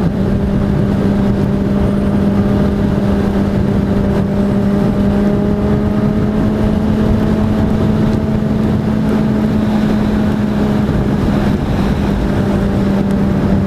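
Kawasaki Ninja 1000's inline-four engine running at a steady cruise, its note holding almost unchanged. Heavy wind rush on the helmet microphone runs underneath.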